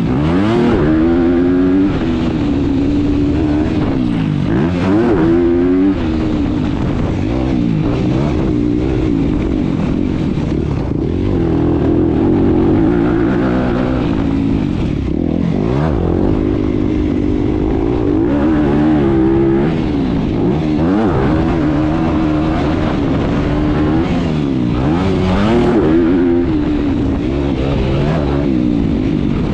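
Dirt bike engines revving hard and easing off again and again, the pitch climbing and dropping every second or two as they ride.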